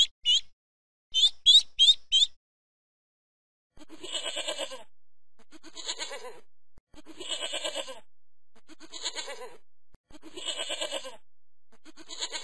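Ducklings peeping in two quick runs of short high chirps. Then, from about four seconds in, a goat bleating over and over, about six bleats roughly a second and a half apart.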